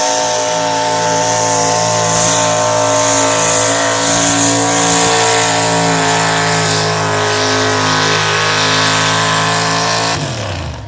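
A competition pulling vehicle's engine held at high revs at full throttle in a steady, loud drone during a pull. Near the end the revs fall away as the throttle comes off.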